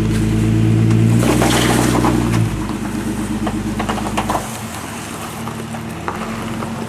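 A Jeep Grand Cherokee WJ's 4.0-litre straight-six engine pulling under load as the stock SUV climbs a rock ledge, holding a steady pitch, easing off after about two and a half seconds and dropping lower again a little later, with scattered clicks and crackles over it.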